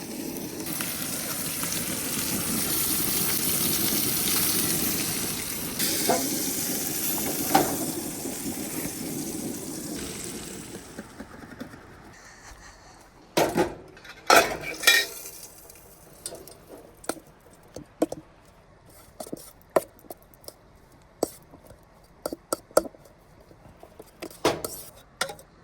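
Wagyu steak sizzling steadily in a pan that is very hot, the sizzle dying away after about ten seconds. Scattered clinks and knocks of cutlery and dishes follow.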